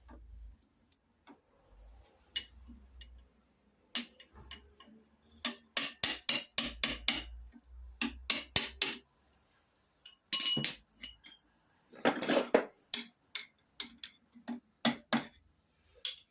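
Metal hand tools and engine parts clinking and knocking against each other: runs of sharp clicks, with a short rattle about twelve seconds in.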